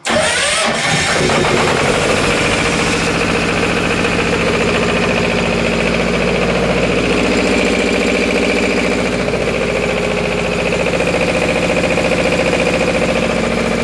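Fire pump engine starting abruptly on its newly replaced starter motor and settling at once into a steady run, with the pump's valve closed. It runs normally, showing the new starter works.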